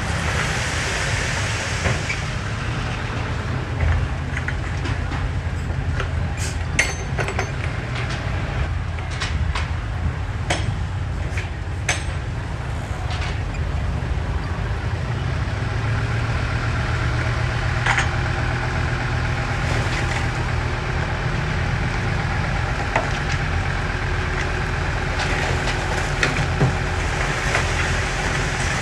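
Diesel engine of heavy earthmoving machinery running steadily under load, with a scattering of sharp metallic knocks and clanks.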